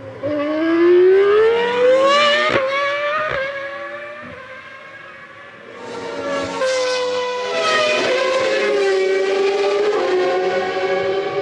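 Formula One race car engines at high revs: the pitch climbs and holds, fades a few seconds in, then a second engine climbs in pitch and holds about six seconds in.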